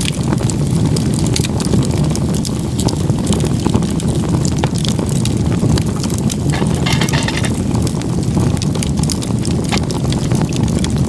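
Campfire crackling, with sharp irregular pops over a steady low rumble. There is a brief hiss about seven seconds in.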